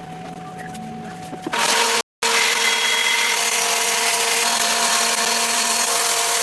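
A power tool working wood runs loudly from about a second and a half in, a steady hissing whine with a brief silent break just after two seconds.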